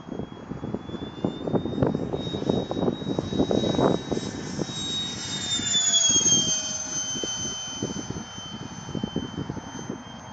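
Electric ducted fan of a ParkZone Habu RC foam jet whining in flight; the whine is loudest about six seconds in and drops in pitch just after, as the jet passes by. Wind gusts buffet the microphone throughout.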